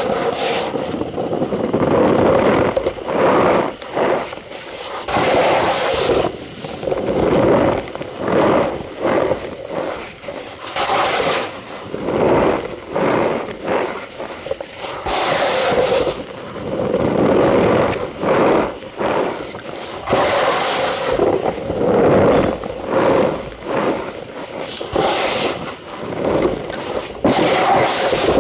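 Cornstarch squeezed and crushed by hand, giving a continuous run of squeaky rubbing sounds, with sharper, brighter bursts every few seconds.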